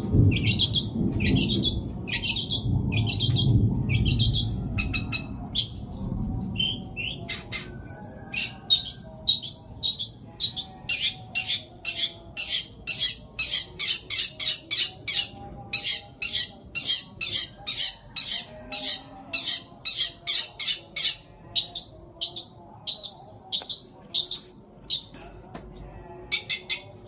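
Long-tailed shrike singing its mimicked fill: a long run of sharp, squawking chirps repeated about two to three times a second. A low rumble lies underneath during the first few seconds.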